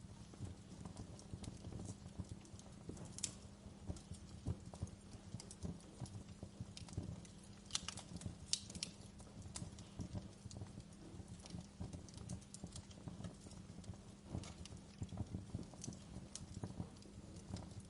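Wood fire crackling in a fireplace: frequent small, irregular pops and snaps over a soft low rumble of the flames.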